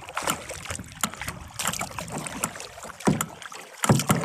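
Kayak being paddled: irregular splashes and knocks of the paddle in the water and against the hull.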